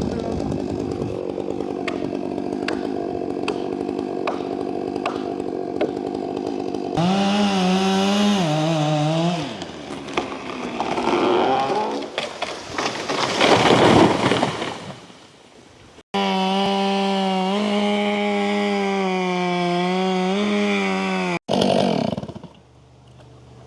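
Two-stroke chainsaw felling a tree: running steadily under load, then revving higher about seven seconds in, with a loud rushing crash peaking about halfway through. After sudden breaks the saw runs steadily at high speed again and dies away near the end.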